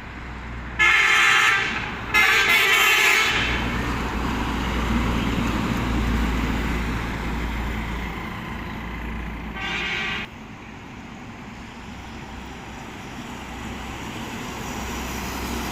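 Truck horn honking: two loud blasts in quick succession about a second in, then a shorter third blast near the end, over the steady low rumble of a running engine.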